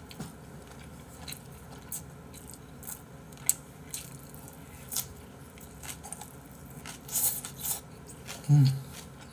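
Close-miked chewing of soft braised mackerel and radish greens with rice: wet mouth clicks and smacks, a few brief slurping noises about seven seconds in, and a short hummed 'mm' near the end.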